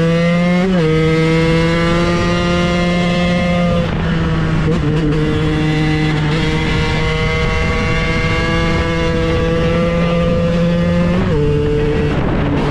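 KTM 125 EXC supermoto's single-cylinder two-stroke engine running loudly at high, nearly steady revs, with brief jumps in pitch about half a second in, about four seconds in and near the end.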